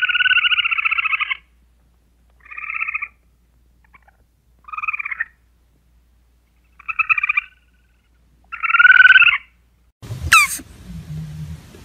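A squirrel giving five raspy, rattling chatter calls, each half a second to a second long and a second or so apart, the last the loudest. Near the end come a few sharp clicks.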